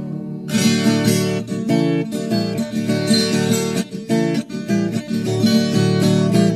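Instrumental break on acoustic guitar: a quick run of plucked and strummed notes, starting about half a second in, with no singing.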